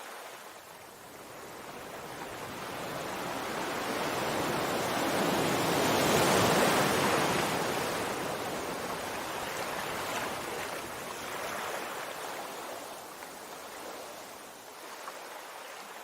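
Sea waves: one wave swells over several seconds, breaks about six seconds in, and washes back out slowly.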